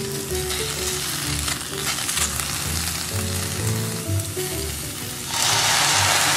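Tsukune patties and chikuwa-wrapped quail eggs sizzling in a hot frying pan. About five seconds in, a soy sauce, mirin, sake and sugar seasoning is poured in and the sizzle suddenly gets much louder.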